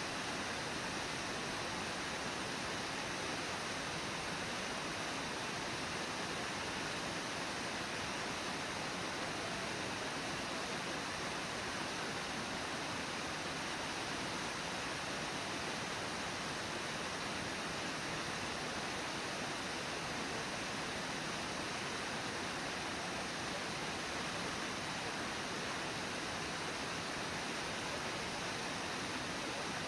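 Steady rushing of water pouring over Brooks Falls, an even hiss that does not change.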